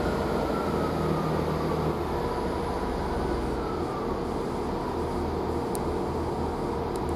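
A Class 165 diesel multiple unit pulling away from the platform: a steady diesel rumble with a pulsing low throb. A whine falls in pitch over the first couple of seconds, and another falls a few seconds in.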